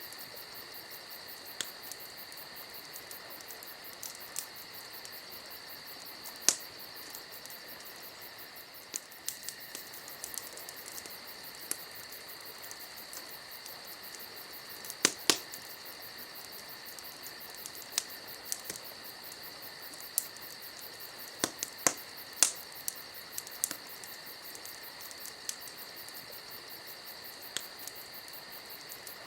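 Wood campfire crackling, with scattered sharp pops, the loudest about a quarter and halfway through and again near three quarters, over a steady high trilling of crickets.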